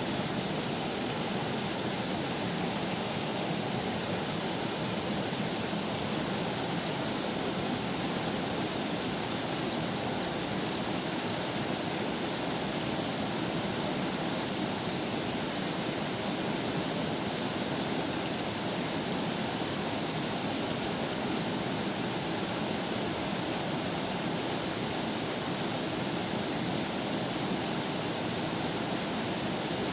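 River water flowing, a steady even rush of running water with no changes.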